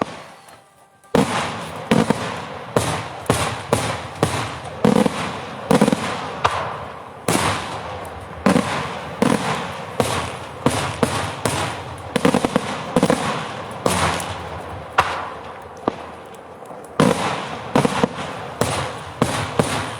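Daytime fireworks by Pirotecnica Senatore going off in a rapid, irregular barrage of loud bangs, often two or three a second, each trailing off in echo, after a brief lull about a second in.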